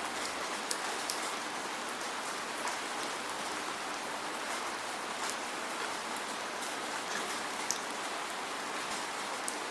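Steady rainfall with no thunder: an even hiss of rain with scattered sharp ticks of individual drops striking a surface.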